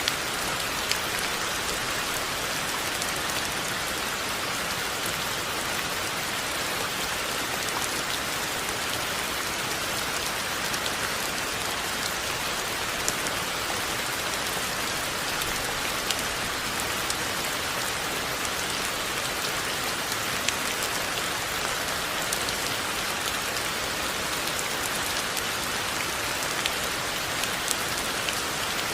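Steady rain falling: an even hiss, with scattered sharper taps of single drops.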